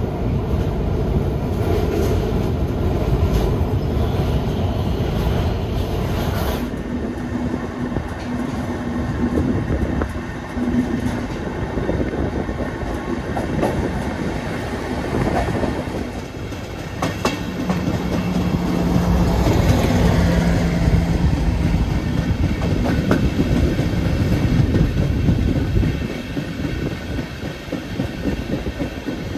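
Running noise of a couchette sleeping car on a moving passenger train, heard from inside: a steady rumble of wheels on the rails with a few sharp clicks from the track. The sound changes abruptly about a quarter of the way in and again about halfway through.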